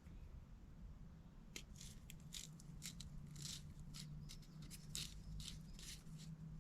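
A run of short, sharp scraping or cutting strokes, about two a second, starting about one and a half seconds in, over a steady low hum.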